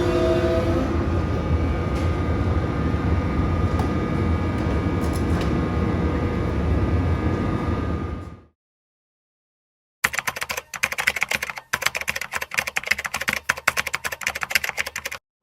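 Steady low rumble of a moving passenger train, which fades out about eight seconds in. After a short silence, rapid clicking like fast typing on a keyboard runs for about five seconds and stops abruptly.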